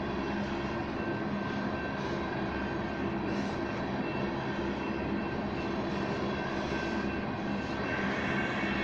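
Union Pacific oil train passing a road crossing: a steady rumble of wheels on rail, with a low, even engine hum running underneath.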